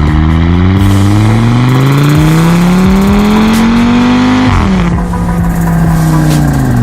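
Audi RS3's turbocharged five-cylinder engine through a Milltek exhaust, accelerating with a steadily rising note for about four and a half seconds. The pitch then drops sharply and the engine runs on at a lower note that slowly falls.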